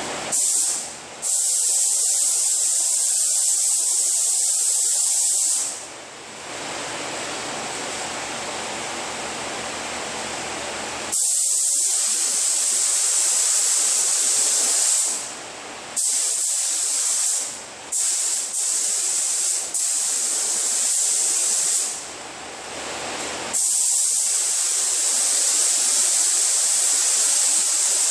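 Paint spray gun spraying a coat onto a fender: a loud, high air hiss in trigger-pulled passes a few seconds long, with several short bursts in the middle. A quieter steady air noise fills the gaps between passes.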